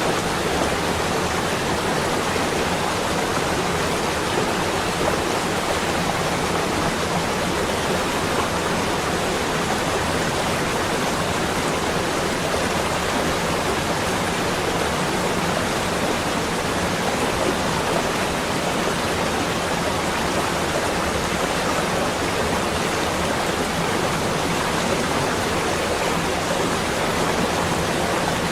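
Steady, even rushing noise without breaks or distinct events.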